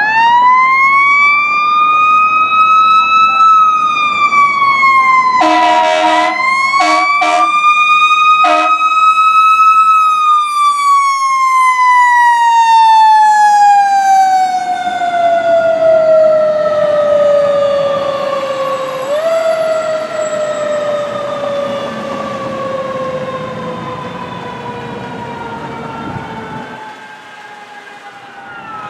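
Fire engine siren wailing, its pitch sweeping slowly up and down, then falling in a long wind-down with one short rise near the two-thirds mark. A few short air horn blasts sound over it a little after five seconds in.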